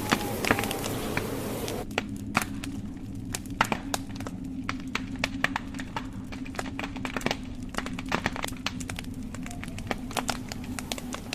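Wood fire burning in a fireplace, logs crackling with many sharp irregular pops over a steady low hum. A higher hiss fades out about two seconds in.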